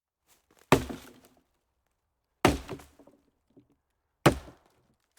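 Three sharp impacts, evenly spaced about a second and three quarters apart, each dying away within about half a second.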